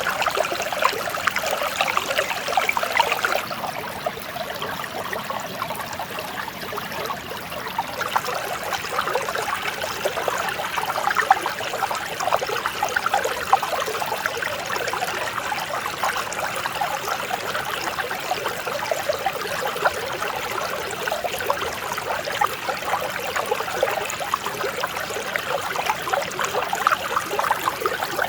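Mountain stream flowing over rocks: a steady, dense splashing and burbling of running water, a little softer for a few seconds shortly after the start.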